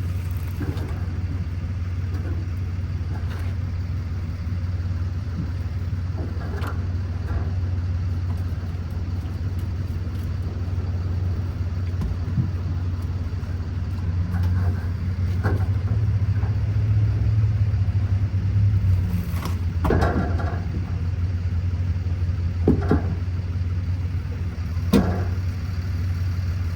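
A steady low mechanical hum, with a few short metal knocks and clanks as a full fuel tank is lowered from under a Ford Excursion, the sharpest about 20, 23 and 25 seconds in.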